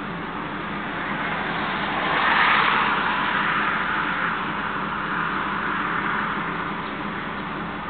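1979 Hurst/Olds V8 engine running steadily, with a broad swell of car noise that builds about two seconds in and fades slowly over the next few seconds.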